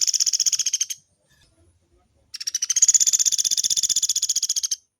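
A pelatuk beras woodpecker giving long, fast rattling trills of evenly repeated high notes. One trill ends about a second in, and another runs from just over two seconds in until near the end.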